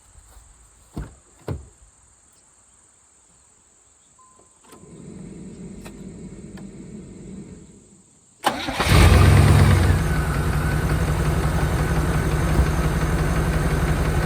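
A 1992 Chevrolet Caprice's 350 V8 with throttle-body fuel injection starts about eight seconds in, runs loudest for a moment just after catching, then settles into a steady idle with a light tick, which the owner thinks could be a sticky lifter from sitting. Before it, two knocks and a steady hum for a few seconds.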